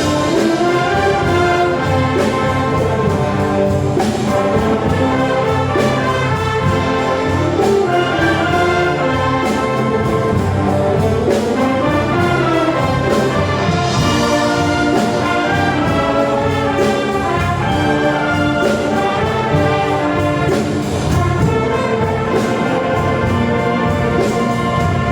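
A Filipino brass band plays a full arrangement, with massed brass carrying the tune and harmony over drums keeping a steady beat.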